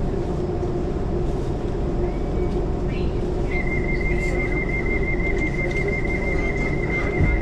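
Electric passenger train running, with a steady low rumble and motor hum heard from on board. About halfway in, a steady high-pitched tone starts and holds.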